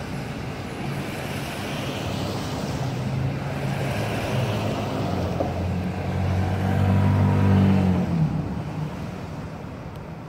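Amtrak Acela electric trainset passing close by: a rumble and hum that grows to its loudest about three quarters of the way in, then drops in pitch and fades quickly as the train goes past.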